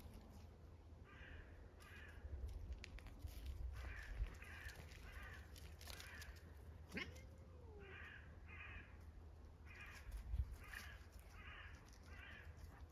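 Birds calling in a series of short calls, mostly in pairs and runs, repeated throughout; one lower gliding call about seven seconds in.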